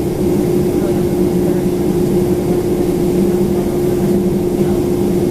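Steady drone inside the cabin of a Boeing 767-400ER airliner, with a constant hum held at one pitch.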